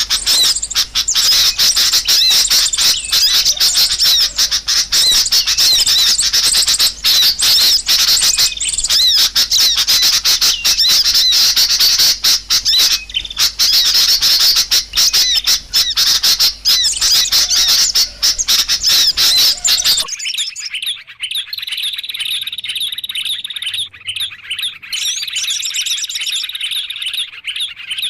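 Small birds chirping and squawking in a loud, dense, rapid chatter, played as a bird-trapping lure call. About two-thirds of the way through it cuts abruptly to a quieter recording of thinner, high-pitched chirps.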